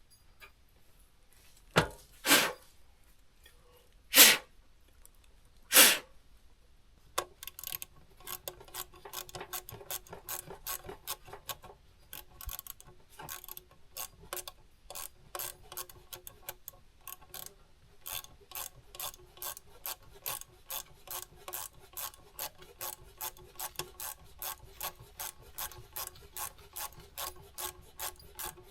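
Hand tools at work on the truck: a few loud sharp knocks, then a steady run of rasping, ratchet-like clicks about twice a second.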